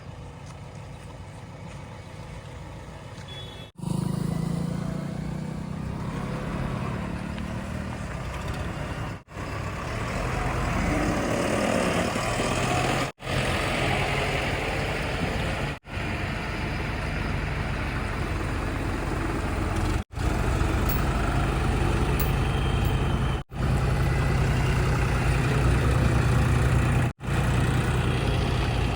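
Diesel engines of heavy machinery and trucks running, in a string of short clips that each cut off abruptly every few seconds.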